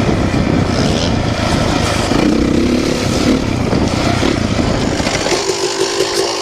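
Motorcycle running on the road, a loud, dense noise. About five seconds in it changes to a steadier pulsing note.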